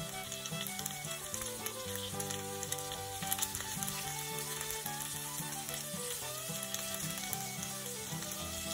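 Food frying in oil in a pan: a steady sizzle with scattered small pops. Background music with a stepping melody plays over it.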